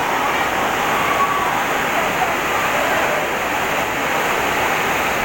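Heavy rain and strong wind making a steady, loud rushing noise, with faint voices of people mixed in.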